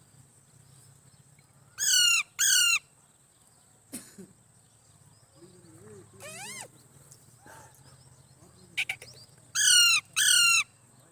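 Parrot calling: two pairs of loud, wavering screeches, one pair early and one near the end, with a few softer calls and clicks in between.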